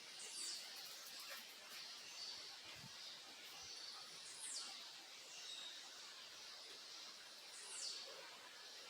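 Faint backyard birds calling: three thin, high calls slide sharply downward about three to four seconds apart, with short high chirps in between, over a steady hiss.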